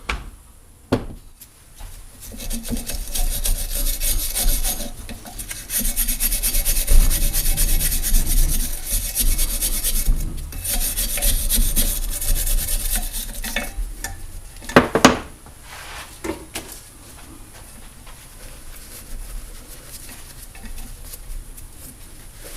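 A plumbing brush scrubbing corrosion out of a trolling motor's housing in rapid back-and-forth strokes, loudest through the middle. There is a sharp knock about fifteen seconds in, and the scrubbing is fainter after it.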